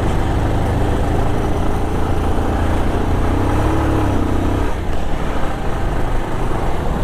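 Motorcycle engine running steadily while riding, with a constant low hum under road and traffic noise.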